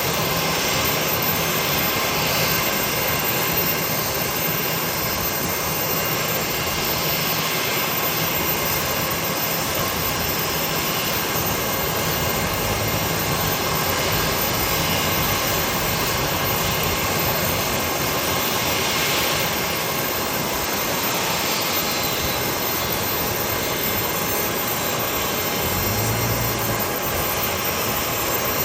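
Jet engines of an Airbus A320-232, its IAE V2500 turbofans, running: a steady, even rush of engine noise with faint steady whine tones over it.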